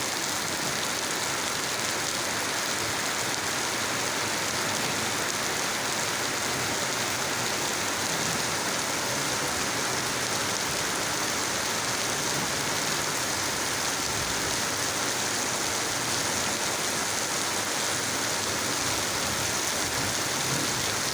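Steady rainfall: an even, unbroken hiss of rain falling and hitting surfaces.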